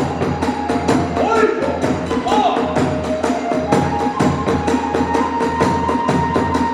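Hiroshima kagura ensemble music: a fast, even beat of drum and hand-cymbal strikes under a bamboo flute playing long held notes.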